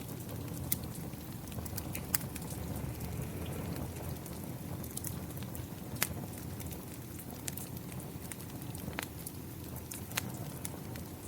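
Fire in a fireplace crackling, with scattered sharp pops, over the steady hiss of falling rain.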